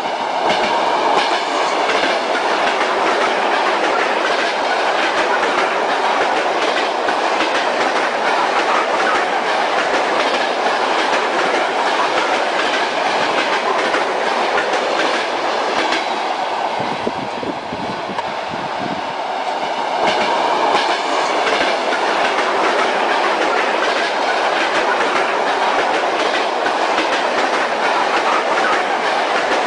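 Train wheels clattering over the rail joints, with the steady rushing rumble of a moving train. The sound dips briefly a little past halfway, then picks up again.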